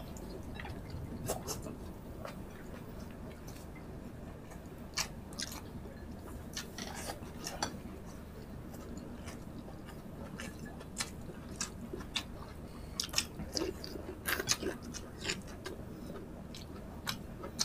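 Two people chewing and smacking mouthfuls of rice and tocino, with many short, irregular wet clicks from lips and mouth.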